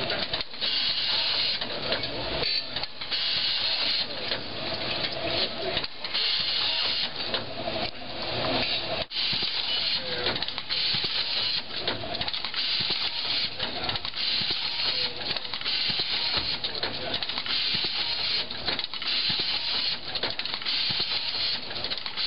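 Automatic wheel-lacing machine running as it laces spokes into a wheel: repeated bursts of high noise with many short clicks and ticks.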